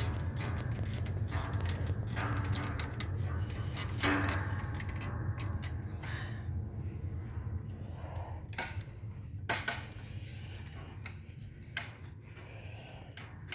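Scattered clicks and knocks, as of handling and moving about, over a low steady hum that slowly fades.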